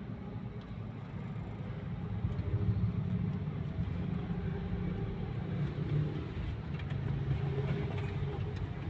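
Vehicle engine running with road noise as the vehicle moves off, a low steady drone that grows a little louder about two seconds in.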